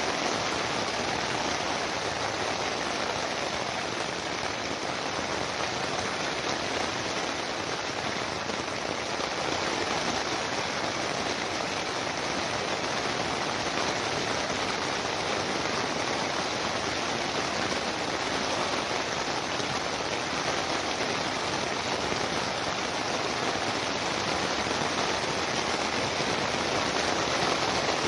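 Steady rain falling, an even continuous hiss without pauses or changes.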